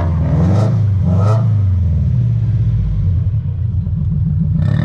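A car engine running loudly with a deep exhaust rumble, its pitch wavering slightly up and down as the throttle is blipped. There is a short sharp burst near the end.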